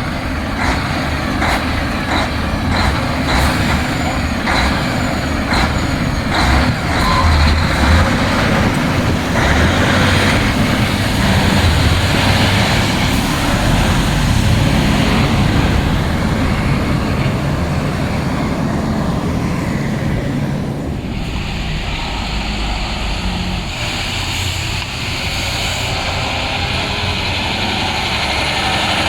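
Heavy diesel dump trucks running with a steady low engine rumble. A regular ticking comes almost twice a second over the first several seconds, and the noise changes about two-thirds of the way through.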